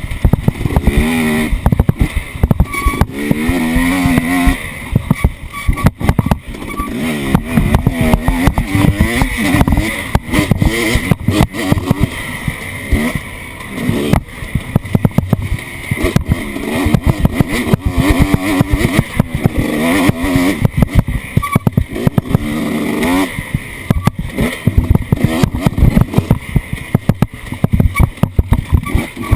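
Off-road vehicle engine revving up and down over and over, with frequent knocks and rattles throughout.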